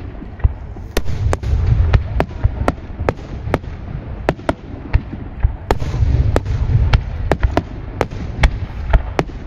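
Starmine fireworks: a rapid run of aerial shells launching and bursting, with sharp cracks coming two or three a second over a rolling low rumble of booms that swells about a second in and again near the middle.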